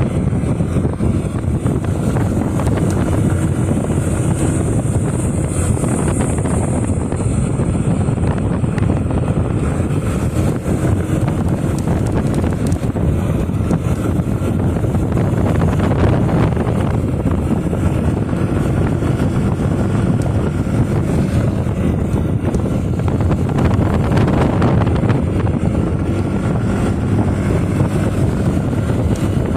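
Wind buffeting the microphone over a motorcycle running at a steady cruising speed, a constant loud rush with a faint engine hum underneath.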